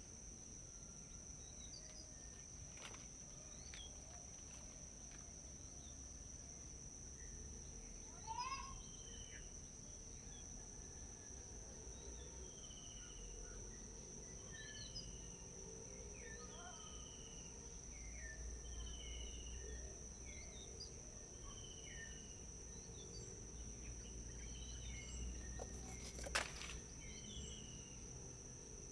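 Forest birds calling faintly over a steady high-pitched insect drone; through the second half one bird repeats a short falling note about every second and a half. A single sharp click sounds near the end.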